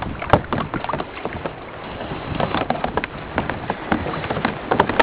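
Sea water lapping and slapping against a kayak's hull, a steady splashy hiss with many small irregular knocks and splashes.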